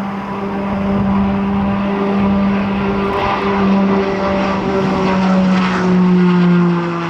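Piaggio P-180 Avanti II's twin PT6A turboprops and pusher propellers droning as the aircraft departs, a loud steady tone with overtones whose pitch drops a little about five seconds in as it goes past.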